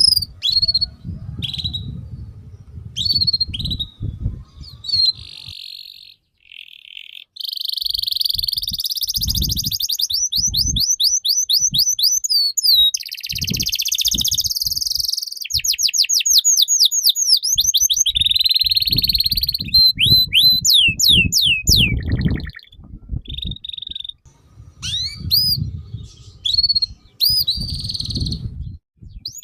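A songbird singing a long, varied song: quick runs of downward-sweeping whistles, rapid trills and buzzy phrases, hardly pausing. Bursts of low rumbling noise come and go underneath.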